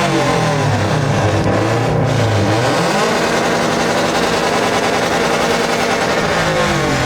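Subaru turbocharged flat-four engine revving loudly through an aftermarket exhaust: the revs drop and climb again, are held high for a few seconds, then fall back near the end.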